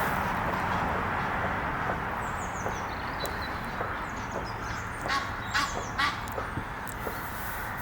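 Egyptian geese calling, with three short harsh honks close together about five seconds in, over a steady rushing background noise. Small birds chirp faintly and high in the background.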